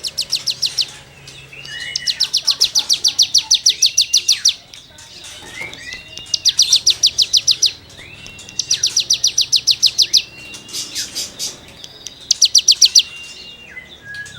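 Ciblek gunung (cigung) songbird singing hard in fast rasping trills, about ten notes a second, in bouts of one to three seconds. Each bout is split from the next by a short whistled note that rises and then drops.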